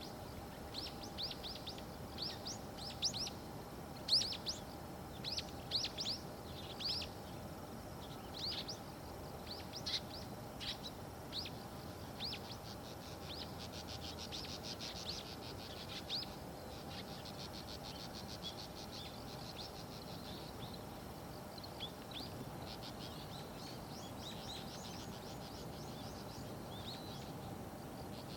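Small birds calling: a run of short, sharp, high chirps, with rapid high trills in the middle and again near the end, over a faint steady hum.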